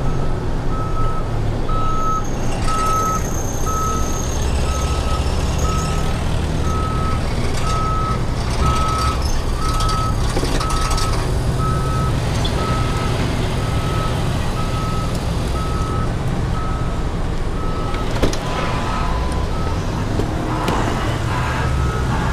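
A heavy machine's reversing alarm beeping steadily at an even pace, over the low rumble of a diesel engine.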